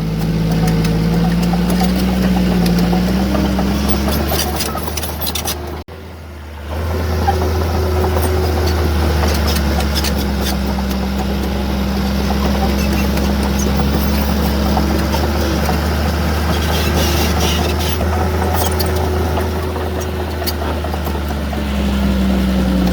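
Heavy diesel earthmoving machinery running steadily at work, its engine pitch drifting slightly up and down. The sound cuts out sharply for a moment about six seconds in, then carries on.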